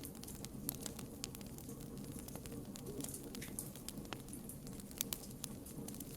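Campfire burning with a steady low rush and irregular sharp crackles and pops of burning wood, one louder pop about five seconds in.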